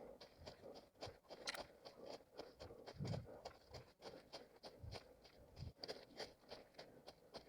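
Running footsteps crunching on dry forest litter, a steady pace of about three steps a second, with a few low thumps in between.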